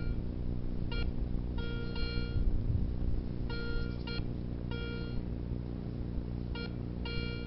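Metal detector sounding about six beeps of varying length, short blips and longer tones, as the coil is swept over metal targets under the snow, over a steady low hum.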